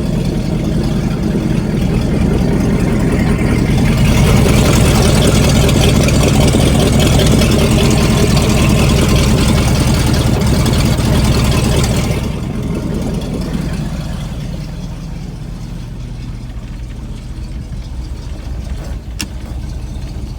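1998 Cobalt 220's engine idling, with the Captain's Call exhaust cutout opened: the exhaust grows louder and fuller from about two to four seconds in. About twelve seconds in it drops back to a quieter, muffled idle as the cutout closes. Two brief clicks come near the end.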